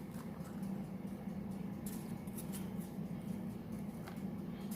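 Scattered light taps, clicks and rustles of small cardboard brick pieces being handled and pressed into place, over a steady low hum.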